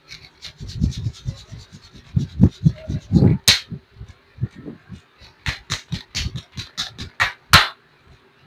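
Hands massaging oiled feet and legs: quick rubbing strokes on skin with low thumps, and sharp smacks, one loud about a third of the way in and then a quick run of them in the second half.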